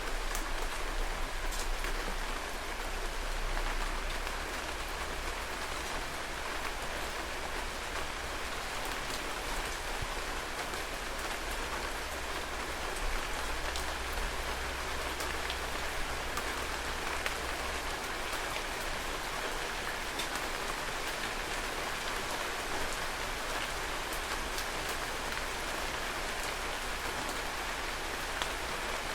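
Heavy rain falling steadily, with the patter of individual drops hitting surfaces.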